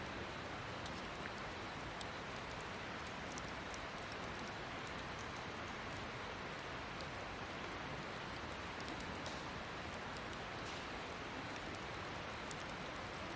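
Steady hiss with faint, scattered crackling ticks throughout.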